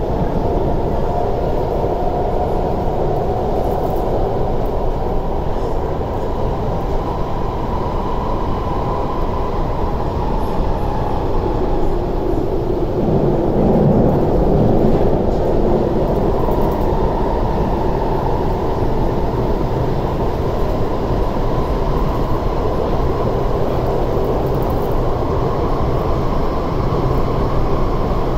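Running noise heard inside an MTR SP1900 electric train car in motion: a steady, loud rumble of wheels on rail and the car body. It grows a little louder about halfway through.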